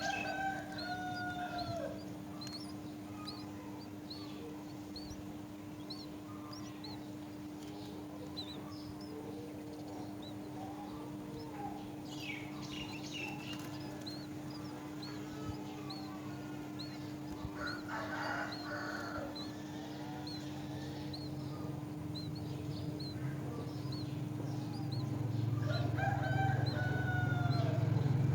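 A rooster crowing twice, once at the start and again near the end, over a steady run of short high chirps from a small bird repeating about once every second or less.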